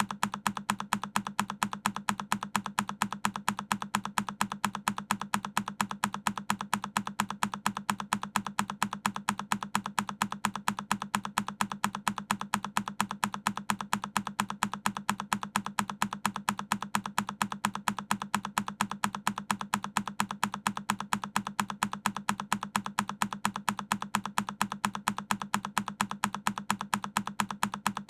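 A single key on a Keychron K10 mechanical keyboard pressed over and over, each press a sharp click, repeating at an even, quick pace several times a second.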